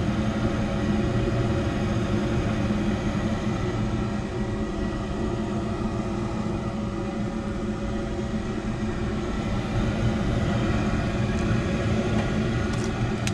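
Trane S9V2 gas furnace running steadily just after lighting, its inducer fan and burner flames giving an even, constant hum.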